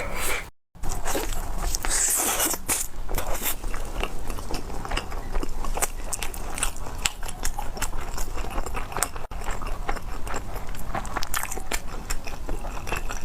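Close-miked eating: crunchy bites and chewing, a dense run of short crisp crackles and clicks, with a brief break about half a second in.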